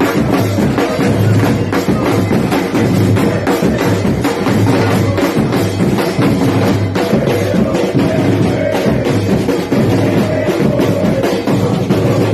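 Loud music driven by drums: repeated bass-drum hits under sharp percussion strikes.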